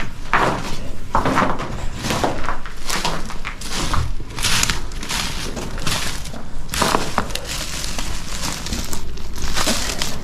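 Footsteps crunching and cracking over debris and dry undergrowth, an irregular run of crunches throughout.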